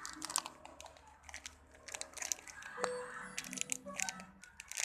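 Irregular crinkling and clicking of plastic being handled, close to the microphone, with a faint tune underneath.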